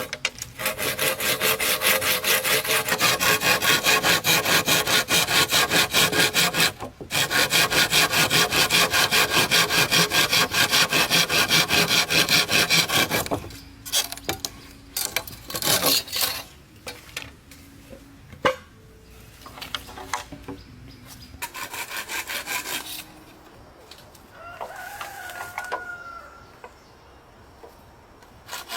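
Wood being sawn by hand in fast, steady strokes for about thirteen seconds, with a brief pause about seven seconds in. After that come scattered lighter scraping strokes and knocks.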